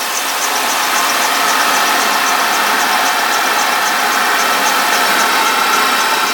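Audi B7 A4 2.0T four-cylinder engine idling steadily with a light, even ticking, running on a freshly fitted valve cover gasket; the owner says it sounds pretty healthy.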